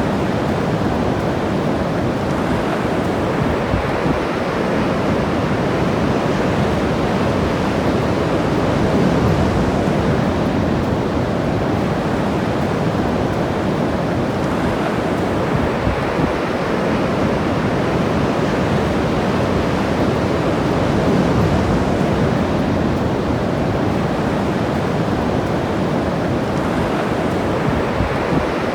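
Ocean surf breaking and washing on a beach: a steady rush of waves that swells a little twice, with no distinct individual sounds standing out.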